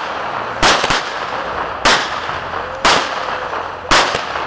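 Consumer fireworks going off in a steady series of sharp bangs, about one a second, some doubled. A faint rising whistle comes between two of the bangs.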